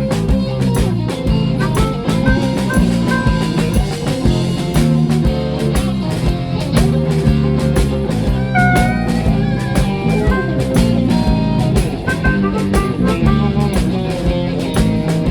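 Live blues band playing an instrumental passage: guitars, bass and drum kit with a steady beat, and a lead line bending in pitch about halfway through.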